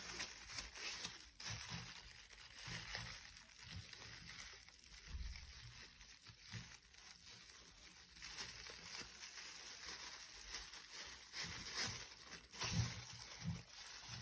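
Thin plastic freezer bag faintly rustling and crinkling in short, irregular bursts as fingers work its mouth open, with a few soft handling bumps.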